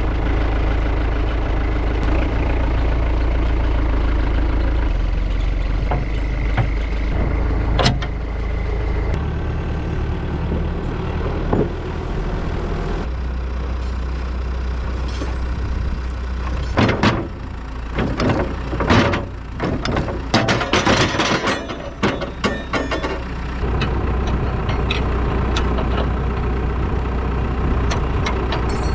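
Heavy-equipment diesel engine running steadily. From about seventeen to twenty-three seconds in, a stretch of irregular clattering, crackling noise sits over it.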